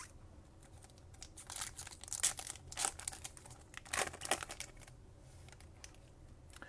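A foil trading-card pack wrapper being torn open and crinkled by hand: a run of short, sharp crackles for about three seconds, starting a little over a second in.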